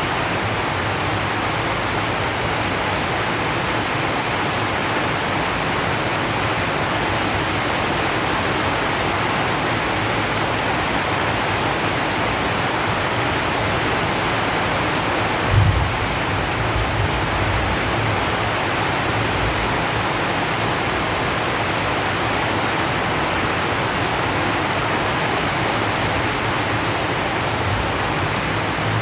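Steady rain drumming on a zinc roof, an even hiss with no letup. About halfway through there is one brief low thump.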